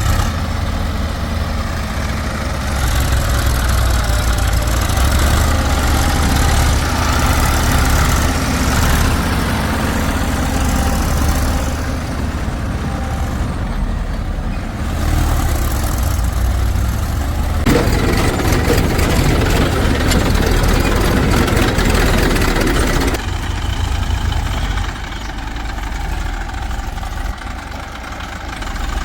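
Diesel engines of a backhoe loader and tractor running at work, with the engine note changing several times under varying load: a harder-working stretch past the middle, then quieter running near the end.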